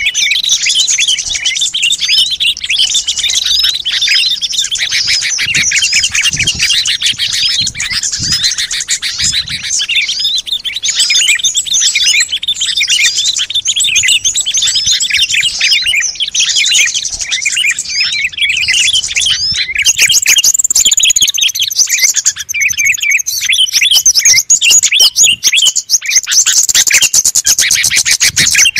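Lure recording of many small songbirds chirping and trilling at once in a dense, busy chorus. About twenty seconds in it grows louder, with quicker and higher trills.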